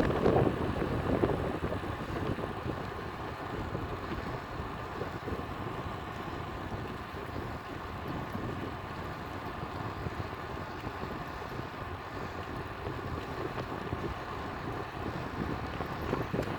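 Steady wind rush on the microphone of a camera riding along on a moving road bike, a little louder in the first second or so.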